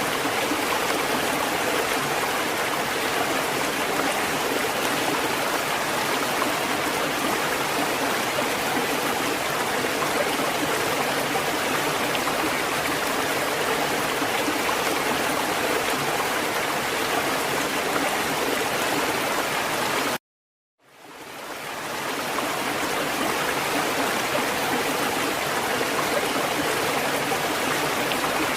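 Steady, even rushing of water, with no rise and fall of breaking waves. About twenty seconds in it cuts out completely for under a second, then fades back in, the join of a looped recording.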